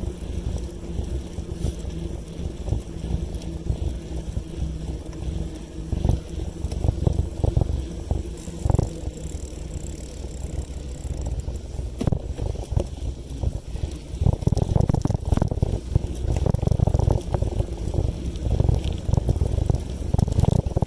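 Riding a bicycle, with wind buffeting the microphone as a low rumble and frequent small clicks and rattles from the bike. The wind rumble grows stronger and gustier in the second half.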